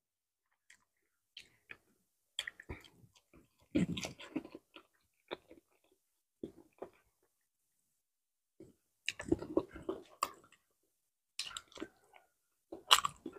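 Close-miked mouth sounds of a person eating ripe bananas: soft chewing, wet smacks and small clicks in scattered short bursts, along with the peel being pulled back. The busiest stretches come about 4 s in, around 9 to 10 s, and near the end.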